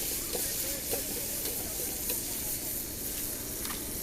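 Food sizzling in a large wok over a hot fire: a steady frying hiss, with a few faint clicks.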